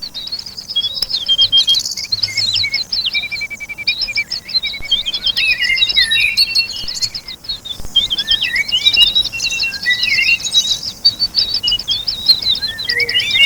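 A chorus of several songbirds singing at once, with rapid overlapping chirps, trills and warbles.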